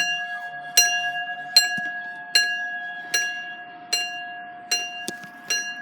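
UK level crossing warning alarm sounding: a sharp, bell-like strike about every 0.8 seconds over a steady ringing tone, the sound slowly growing fainter.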